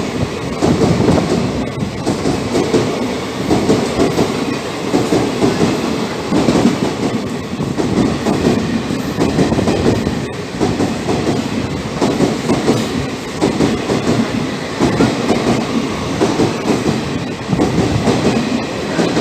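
Passenger coaches of an express train running through a station at speed without stopping, the wheels clicking over the rail joints in a repeating rhythm under a steady rolling rumble.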